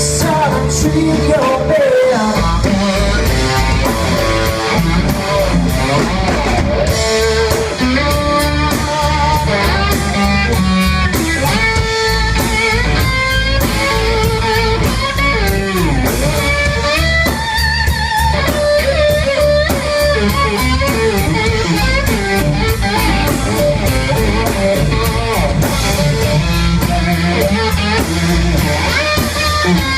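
Live blues-rock band playing, led by electric guitar with bent, wavering notes over bass and a steady drum beat.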